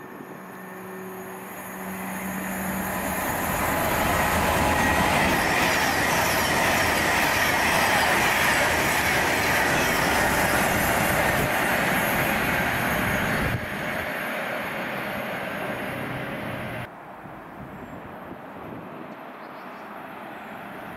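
A train passing at speed: wheel and rail noise builds over the first few seconds to a loud rush with a high wheel squeal, then drops away suddenly in two steps in the later part.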